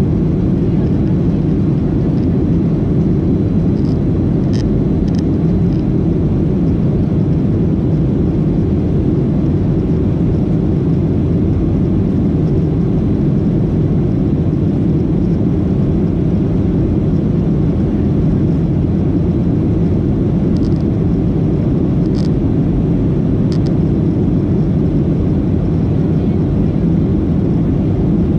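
Cabin noise inside a Boeing 737-800: a loud, steady low drone from its CFM56 engines and the airframe, heard from a window seat in the rear cabin. A few faint high ticks come through near the start and again a little past the middle.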